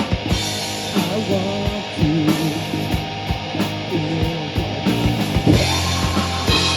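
Live rock band playing loud: electric guitar, bass and drum kit, with frequent drum hits over held and bending guitar notes.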